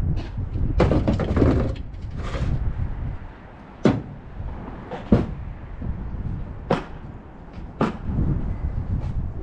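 Wind rumbling on the microphone, with a couple of scraping rustles early on and then four or five sharp knocks and clanks from dirt bikes and gear being loaded for transport.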